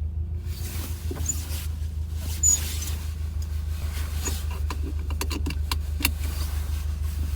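Subaru WRX making an intermittent grinding noise, heard as scattered clicks and short rough patches over the steady low rumble of the car running.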